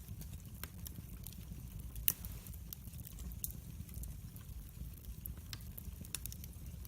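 Log fire in a fireplace crackling: irregular sharp pops and snaps over a steady low rumble of the flames, with one louder pop about two seconds in.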